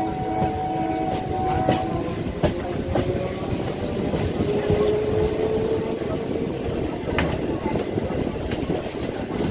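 An electric multiple-unit (EMU) local train running, heard on board: a steady rumble of wheels on rails, with a few sharp clicks and a faint tone that rises slightly about halfway through.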